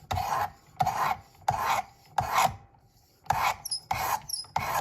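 A 320-grit abrasive rod of a Work Sharp Precision Adjust sharpener stroked along a clamped knife edge in seven short strokes, each starting with a light click, with a brief pause in the middle. These are the first passes grinding a completely new edge onto a dull factory-edged blade.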